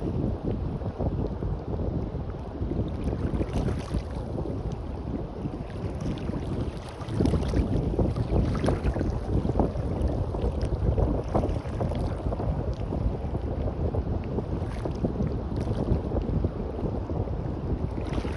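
Wind buffeting the microphone over the wash of surf on a beach, a gusty low rumble that gets louder about seven seconds in.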